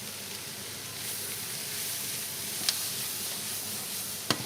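Diced chicken and vegetables sizzling in hot oil in a pan as they are stir-fried, the sizzle growing a little louder about a second in. Two sharp knocks, one a little under three seconds in and one near the end.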